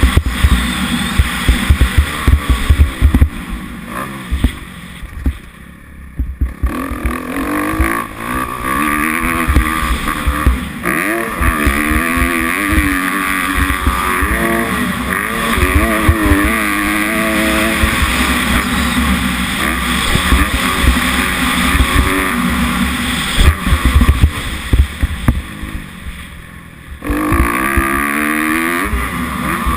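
Kawasaki 250F four-stroke single-cylinder motocross engine being ridden hard, its pitch rising and falling as the rider goes on and off the throttle and through the gears, over a heavy low rumble. The engine sound dips twice, around five seconds in and again near the end, then comes back up.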